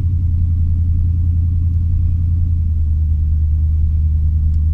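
Small-block 350 V8 of an '86 Chevy K20 pickup running steadily while driving, a deep, loud drone heard from inside the cab; its pitch drops slightly a little past halfway.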